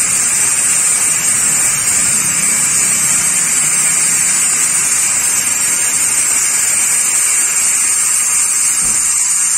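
Pressure washer spraying water: a loud, steady hiss.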